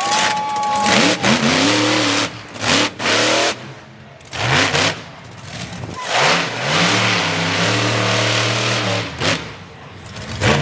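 Monster truck engine revving hard in repeated bursts, pitch sweeping up and down, with one longer held rev in the second half.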